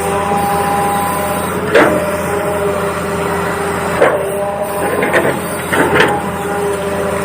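Toy RC excavator's engine sound effect running steadily, with several sharp knocks about two, four, five and six seconds in.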